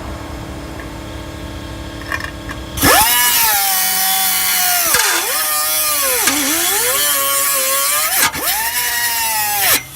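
A power tool starts about three seconds in and cuts into a car's steel exhaust pipe with a loud whine. Its pitch sags and recovers several times as the blade bites into the metal and eases off. Before it starts there is a steady low hum.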